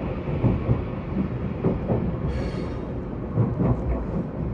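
Train running on the rails: a steady low rumble with about three pairs of sharp knocks as the wheels cross rail joints, and a brief hiss near the middle.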